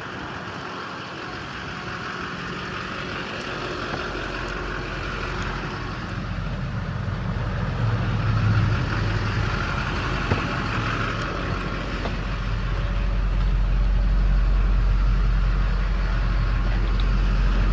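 2004 Chevrolet Silverado 2500 HD's 6.6-litre Duramax V8 turbo diesel idling steadily. It grows gradually louder and deeper from about four seconds in, with a couple of light clicks near the end.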